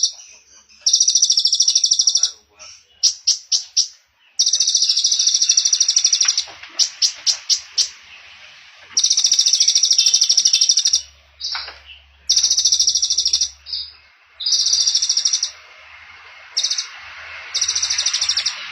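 Small songbird singing rapid, high buzzy trills of one to two seconds each, repeated about seven times, with two short runs of about five quick chipping notes between them. This is trotol-style small-bird song of the kind played as a masteran to teach a white-rumped shama.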